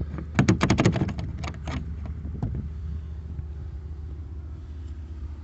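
Quick metallic clicks and rattles of a key and padlock being worked, the lock frozen with ice, over about a second and a half near the start. A steady low rumble runs underneath.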